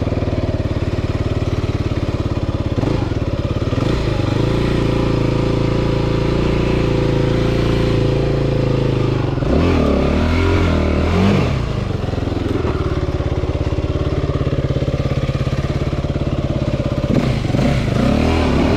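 Enduro dirt bike engine running at a low steady throttle, with three bursts of revving: about three seconds in, in the middle, and near the end.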